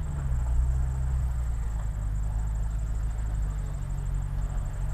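A car engine running steadily with a low hum.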